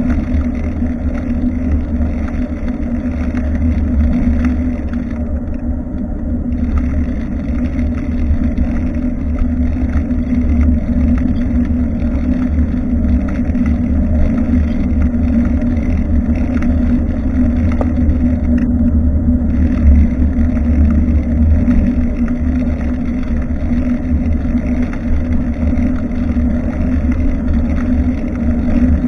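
Steady low rumble of wind and road noise on a bicycle-mounted action camera's microphone while riding, with no break in it.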